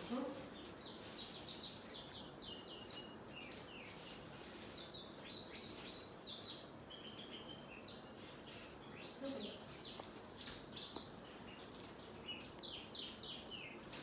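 Small birds chirping: quick clusters of short, high, falling chirps, repeated again and again.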